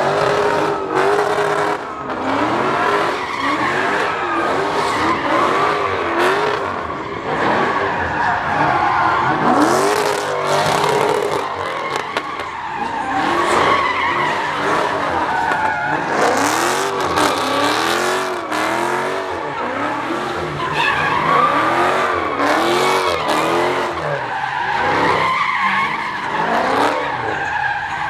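A car engine revved hard in quick repeated bursts, its pitch rising and falling over and over, while the tyres screech in a burnout or slide.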